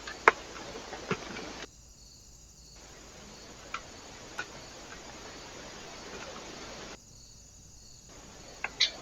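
Steady faint hiss from a trail camera's microphone, broken by a few sharp single taps and clicks, with the hiss dropping out briefly twice.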